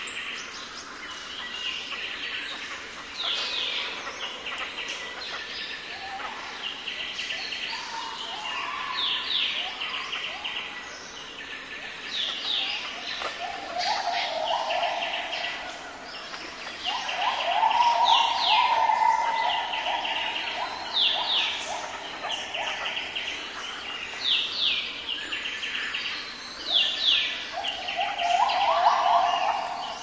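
Birds calling: rapid, repeated high chattering trills and short downward-sliding notes all through. Louder, lower trilling comes in bursts, the loudest from about halfway on and again near the end.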